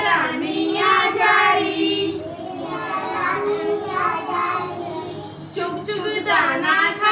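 Young children's voices singing a Hindi nursery rhyme in sung phrases, with a short break between lines about five and a half seconds in.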